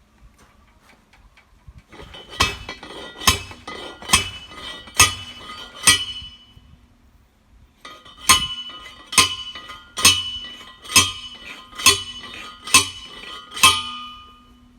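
A hard metal or glass object struck over and over, each strike leaving a short clear ring. Five strikes about a second apart, a pause of about two seconds, then seven more at the same pace.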